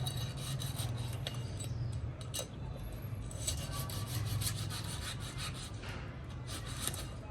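Quick, irregular scraping strokes, many to the second, over a steady low hum.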